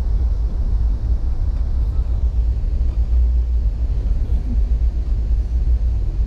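Steady, deep rumble of a passenger train running at speed, heard from inside the car at the window.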